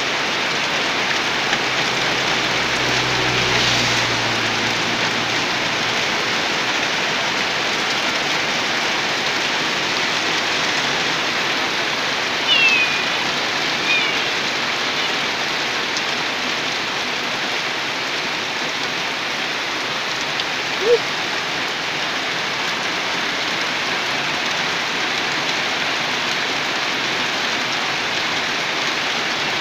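Steady rain falling on a muddy yard, puddles and leaves, an even hiss throughout. A few brief high chirps cut through it about halfway in.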